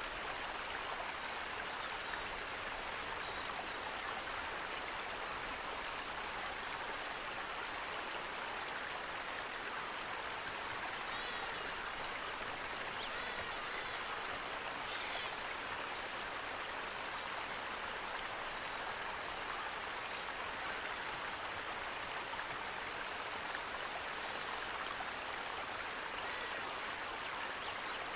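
Flowing water rushing steadily and evenly, the sound of a stream or waterfall recorded for relaxation.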